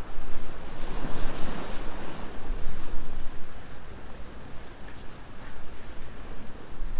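Sea waves washing in, one swell rising about a second in and ebbing away by about three seconds, over a low rumble of wind on the microphone. A few faint crackles from a wood bonfire.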